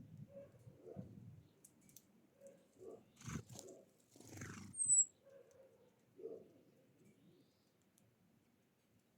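Wild birds: soft, low repeated calls, two brief noisy rustles about three to four and a half seconds in, and one short, high, falling chirp about five seconds in.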